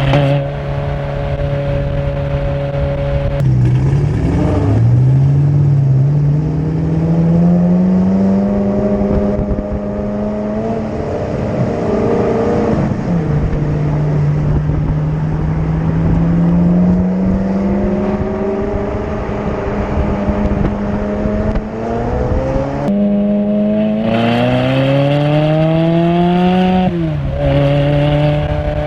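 Ferrari V8 engine driven hard under load. Its pitch climbs in several long pulls, broken by gear changes and lifts off the throttle where it drops, with steady cruising stretches in between.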